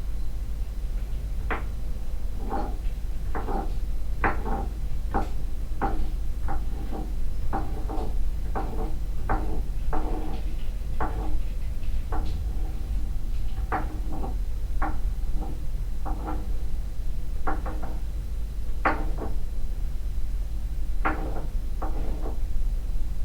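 Floor impact noise: repeated knocks on a floor, about one a second at uneven spacing, each with a short ring, over a steady low hum.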